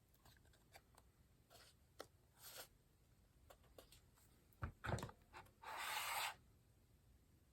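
Quiet hand-crafting sounds of paper and washi tape being handled on a journal page: light taps and rustles, two knocks about five seconds in, then a short tearing rasp about six seconds in.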